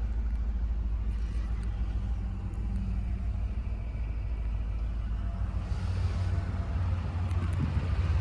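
2008 Ford F-150 pickup's engine idling steadily, a low even hum.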